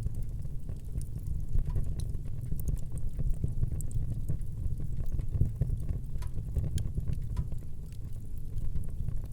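Wood fire burning in a fireplace: a steady low rumble of the flames with many small, irregular crackles and pops from the burning wood.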